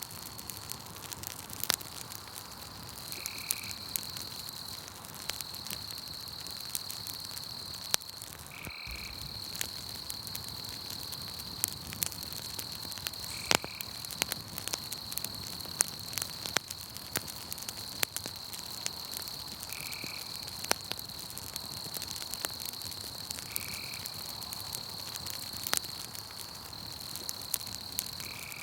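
Campfire crackling with frequent sharp pops, over a steady high-pitched insect trill and a short call that repeats about every four to six seconds.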